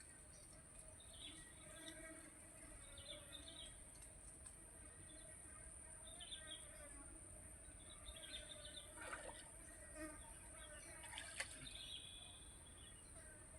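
Near silence: faint outdoor ambience, with a steady high insect drone and scattered faint chirps and distant voices.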